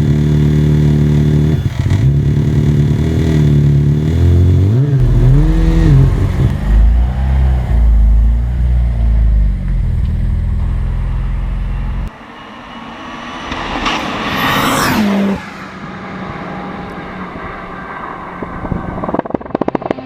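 Turbocharged four-cylinder engine of a tuned Opel Kadett E (Vauxhall Astra Mk2) revving hard, its pitch rising and falling over the first few seconds, then a heavy low rumble. The sound changes abruptly about twelve seconds in, then a rev climbs steeply to a peak and cuts off sharply about fifteen seconds in. It settles to a steadier, quieter run with a few sharp pops near the end.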